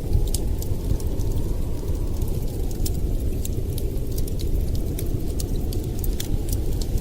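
Wood fire in a fireplace crackling, with scattered sharp pops at irregular intervals over a steady low rumble.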